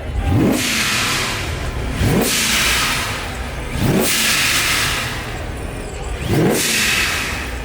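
A car engine being revved repeatedly, four sharp rises in pitch each followed by a drop back, about every two seconds.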